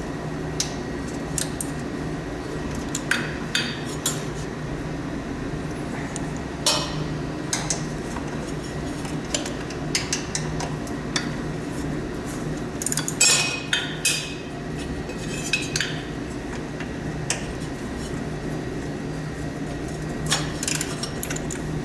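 Scattered metallic clinks and clanks of hand tools and bolts against steel as snowblower transmission bolts are removed, with a denser run of clinks a little past halfway, over a steady low hum.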